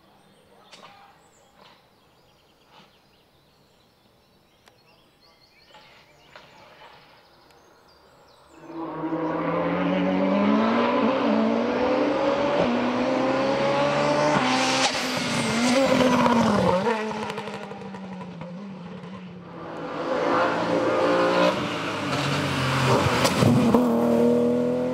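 After about nine seconds of near quiet, a VW Scirocco hillclimb race car with an 8-valve four-cylinder engine comes through at full throttle. The engine revs climb and drop back with each upshift as it accelerates hard. The sound fades briefly, then comes back loud near the end.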